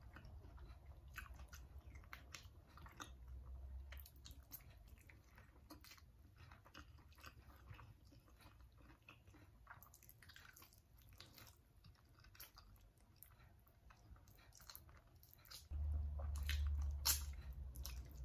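Close-miked wet chewing and biting of saucy chicken feet, with scattered small crunches of cartilage and bone. A low rumble comes in suddenly near the end and is louder than the eating.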